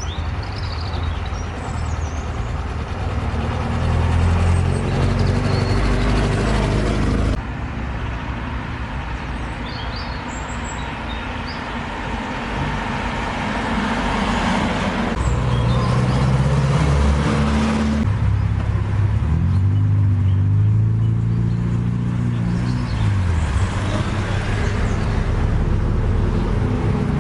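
Engines of classic vehicles running, in several stretches that change abruptly from one to the next, with one engine's pitch falling about two-thirds of the way through. A few bird chirps are heard in the first seconds.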